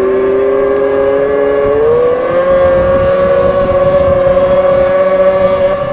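Racing outboard motors running flat out, a high pitched whine with overtones. The pitch climbs slowly and steps up about two seconds in, then holds steady.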